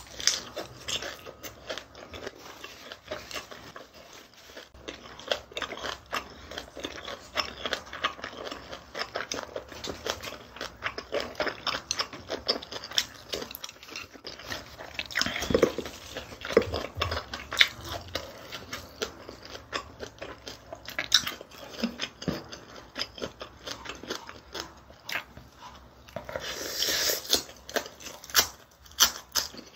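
Close-miked eating: wet chewing and smacking of mouthfuls of rice, pork and noodles, with many small clicks of the mouth and chopsticks. Near the end a louder crunching bite comes from a leafy pork wrap.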